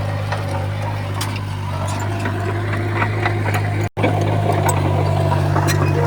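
Heavy earthmoving machine's diesel engine running steadily, with light clicks and rattles over it. The sound cuts out for an instant about four seconds in.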